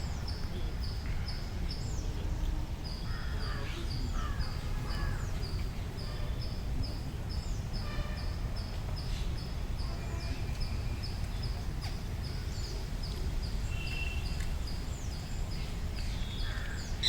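Birds calling: scattered short chirps and harsh calls over a steady low rumble, with a thin high chirp repeating about three times a second.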